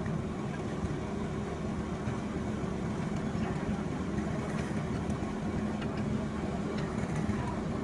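A machine or engine running steadily with an even low hum, with a few faint light ticks over it.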